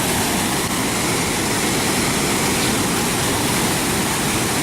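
Water rushing over a dam: a steady, even roar of falling water.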